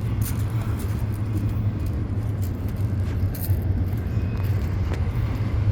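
Freight train cars rolling past: a steady low rumble of the wheels on the rails.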